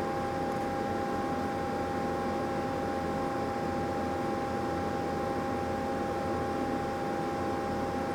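Steady machinery hum with two constant whining tones over an even hiss.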